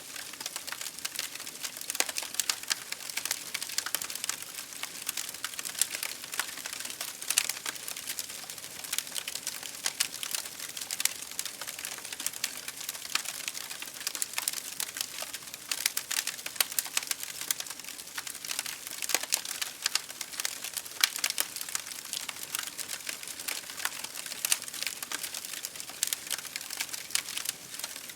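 Wood fire crackling in a fireplace, with dense, irregular pops and snaps, over the steady hiss of rain against a window.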